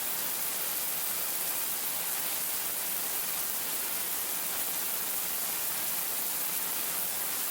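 Steady, even hiss of air noise on an Airbus A380 flight deck, with no other distinct sound.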